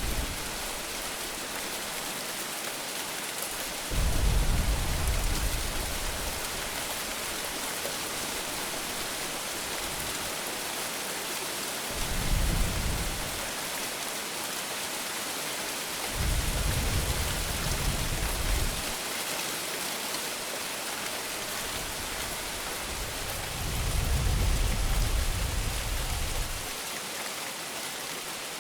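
Steady heavy rain hissing throughout, with four low rumbles of thunder about 4, 12, 16 and 24 seconds in, each lasting one to three seconds.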